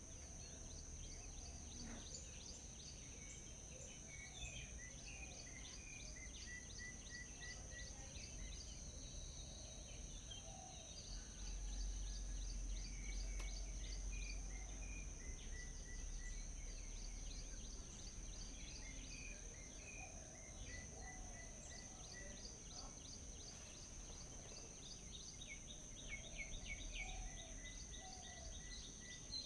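Several songbirds chirping and trilling at once, some repeating a short note in quick even runs, over a continuous high-pitched whine. A low rumble grows louder about a third of the way in.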